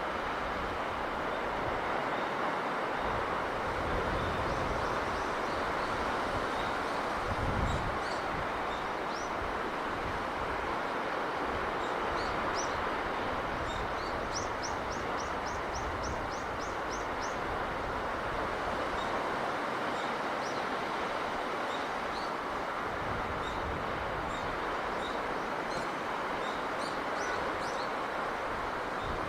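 Steady rushing of sea breeze and surf, with small birds chirping now and then and a quick run of about ten high chirps midway. A few low rumbles come through in the first third.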